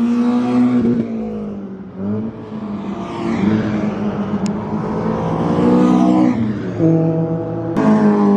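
Audi TT Cup race car's 2.0 TDI diesel engine under load on track. The note rises and falls, jumping suddenly to a new pitch several times as the car changes gear.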